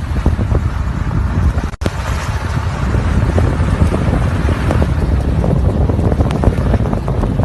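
Strong wind buffeting the microphone in a snowstorm: a loud, steady rushing noise, heaviest at the low end, with a brief dropout about two seconds in.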